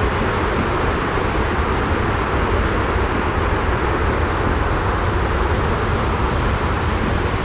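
Steady, unbroken white-noise bed with a deep low rumble under an even hiss, with no separate drops, clicks or changes.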